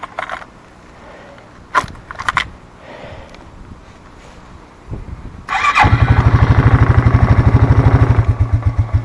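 A 1992 Suzuki four-wheeler's engine being cold-started: a few clicks, then it turns over for about a second, catches and runs fast and loud with an even beat. The beat slows and the sound drops away near the end.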